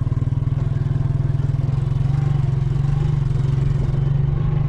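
Motorcycle engine running at a steady speed under the rider, with a fast, even pulse.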